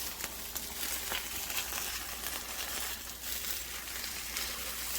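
Eggs sizzling in a HexClad hybrid griddle: a steady crackling hiss with a few faint clicks.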